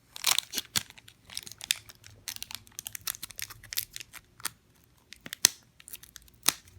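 Pokémon card booster pack wrapper being crinkled and torn open: an irregular run of sharp crackles and tearing sounds.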